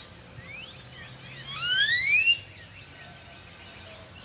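Outdoor bird calls: a few faint short rising chirps, then one loud rising whistled note about halfway through.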